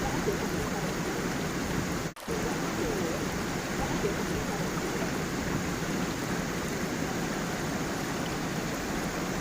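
Small forest waterfall and stream running steadily, a constant rush and babble of flowing water. The sound cuts out for an instant about two seconds in.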